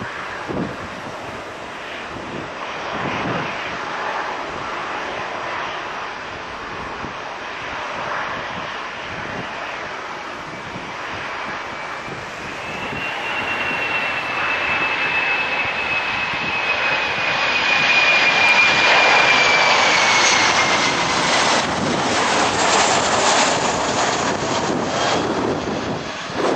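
Boeing 737-300's CFM56 jet engines, building up and passing with a high whine that slowly falls in pitch; loudest a little past the middle.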